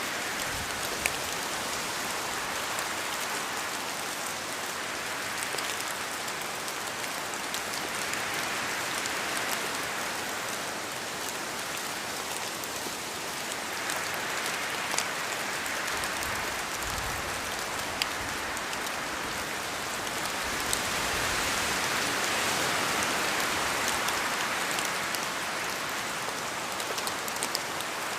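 Steady rain falling in a forest, its hiss swelling and easing several times, with a few sharp ticks of single drops landing close by.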